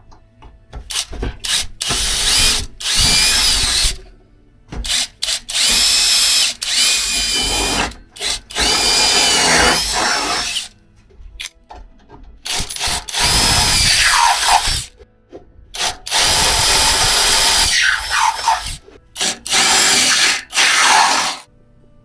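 Electric drill running in about six bursts of one to three seconds, its motor whine rising and falling as it bores holes in a steel pail can being made into a wood stove.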